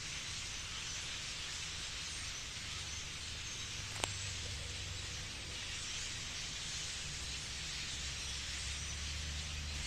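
Steady outdoor background hiss with a low rumble beneath it, and one short click about four seconds in.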